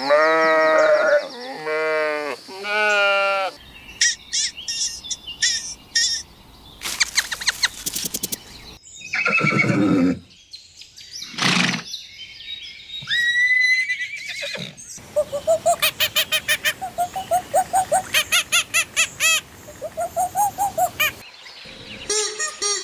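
A run of different animal calls cut one after another. Bleating fills the first few seconds, then come assorted short calls and chirps, and a fast run of pulsed calls at about three a second in the second half.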